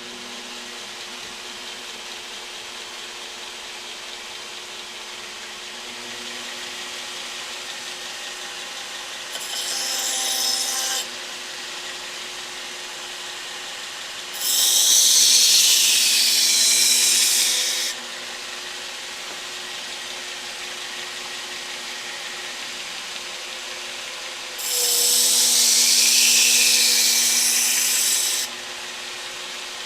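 Burr King belt grinder running steadily while a steel knife blade is pressed to the belt to grind the edge: three grinding passes, a short light one about ten seconds in, then two loud hissing passes of about four seconds each.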